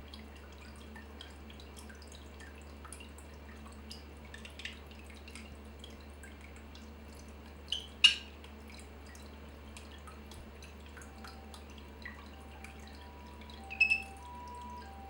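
Water dripping in small, irregular drops, with one sharp loud click about halfway through. A few short high chirps from the parakeet come near the end.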